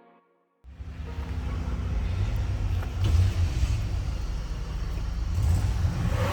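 Steady low rumble of a motor vehicle, which cuts in suddenly about half a second in, just after the last notes of soft music.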